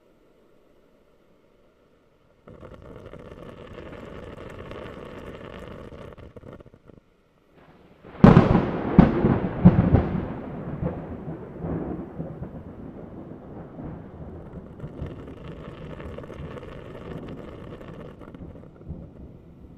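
A steady hiss starts about two and a half seconds in. About eight seconds in comes a loud crack of thunder, several sharp cracks in quick succession, then a rumble that slowly fades over the next ten seconds.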